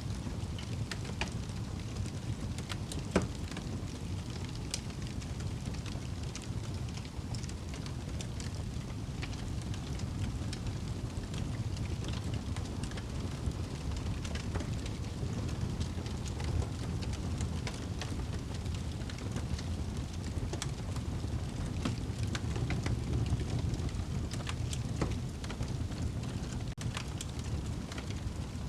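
Wood fire crackling in a fireplace: a steady low rumble of burning with scattered sharp pops and crackles, one louder pop about three seconds in.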